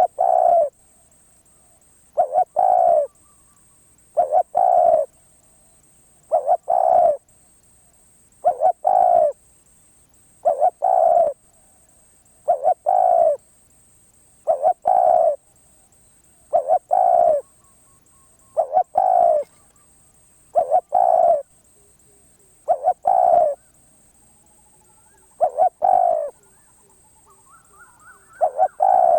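Spotted dove cooing: a short two-part coo repeated about every two seconds.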